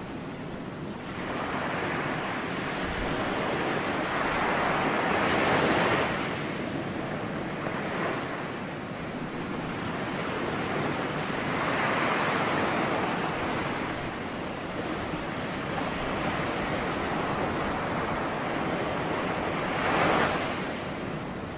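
Ocean surf: waves breaking and washing back in a continuous noise that swells and ebbs, with three louder breakers spread through, the sharpest near the end.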